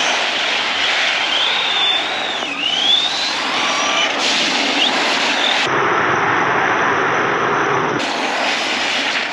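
Arrma Big Rock 6S RC truck's brushless electric motor whining, its pitch rising and falling with the throttle, over a steady hiss.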